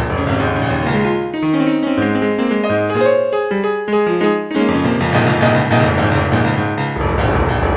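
Piano music: a melody of single and chorded notes over a sustained backing, thinning to a few clear notes midway and filling out again near the end.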